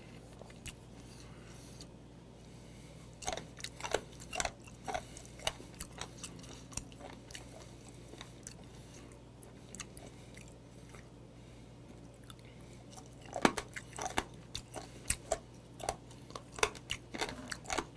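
Close-up chewing of braised mideodeok (warty sea squirt): wet, crunching bites in two spells, a few seconds in and again near the end, with quieter chewing between.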